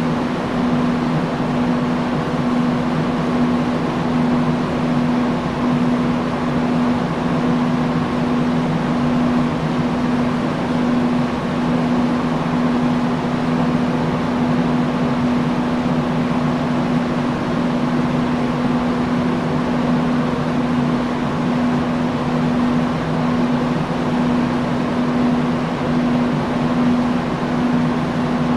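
Industrial fan running steadily: an even rush of air with a constant low hum from the motor.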